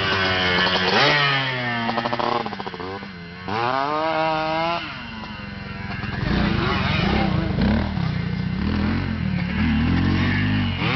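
Small motorcycle engine revving up and down, its pitch rising and falling. It climbs sharply about three and a half seconds in, holds briefly, then drops back, with more uneven revving in the second half.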